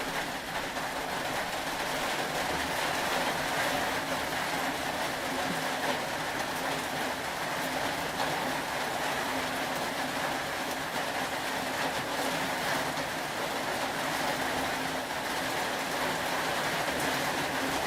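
Steady rain, an even hiss with a faint low hum under it.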